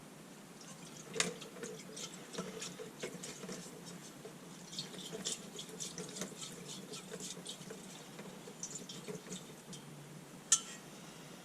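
Old lantern fuel dripping and trickling from a Coleman lantern's fuel tank into a pail, an irregular run of small drips and splashes. There are two sharper clicks, one about a second in and one near the end.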